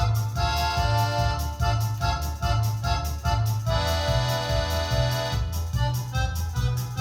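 Electronic keyboard playing an instrumental piece: a steady, repeating bass accompaniment pattern under a melody, with a long held chord about halfway through.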